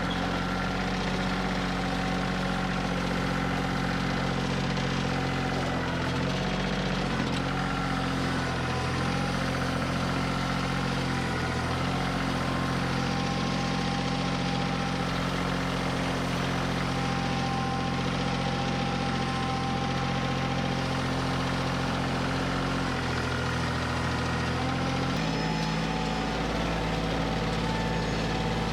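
Kioti CK2610 compact tractor's diesel engine running steadily while working logs with its grapple. Its note shifts slightly near the end.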